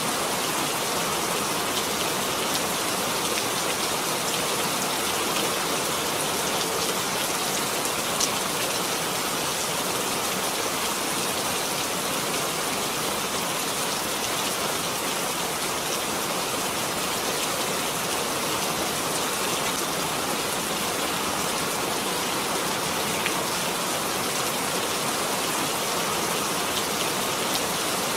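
Steady rainfall: an even hiss of rain on surfaces, with a few sharper drop ticks.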